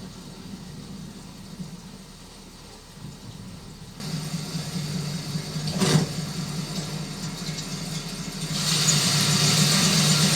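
A low, steady rumble that grows louder about four seconds in and again near the end, where a hiss joins it, with a single knock around six seconds.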